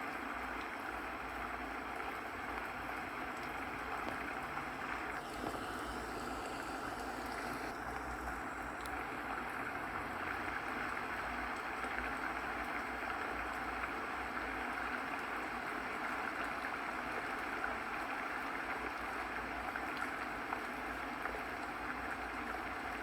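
Running water flowing steadily, an even continuous rush.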